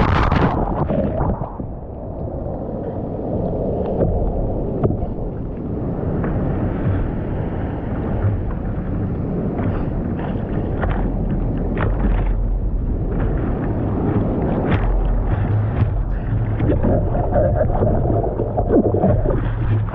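Wind buffeting the microphone over a steady rushing noise, with low rumbles that swell now and then and a few short clicks.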